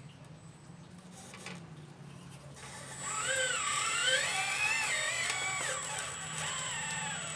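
Hydraulic pump and electric motor of a 1/12 scale RC excavator whining as it is worked, starting about three seconds in; the pitch glides up and down continuously with a steady high tone above it, over a low constant hum.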